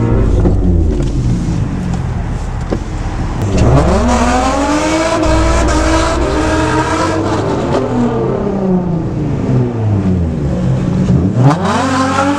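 Car engine revving hard: its pitch climbs steeply about three and a half seconds in, falls away slowly over several seconds, then climbs sharply again near the end.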